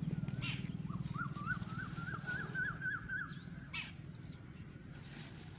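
Bird calls: a quick warbling call and short high chirps, over a low, evenly pulsing hum that fades out near the end.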